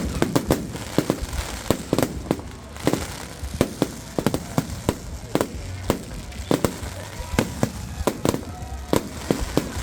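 Firecrackers going off in an irregular run of sharp bangs, a few each second, throughout.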